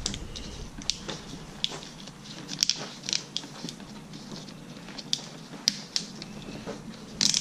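Plastic split wire loom being worked by hand onto a blower's throttle cable and wire: scattered small clicks and crinkles at irregular intervals.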